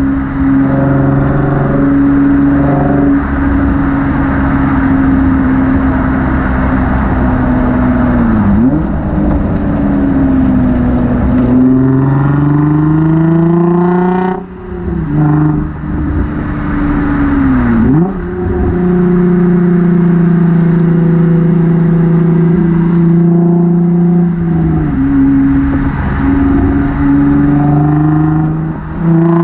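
Nissan 350Z's 3.5-litre V6 through a Motordyne cat-back exhaust while driving: the engine note climbs under acceleration, holds steady at cruise, and drops sharply several times as gears are changed, with a brief lift in volume near the end.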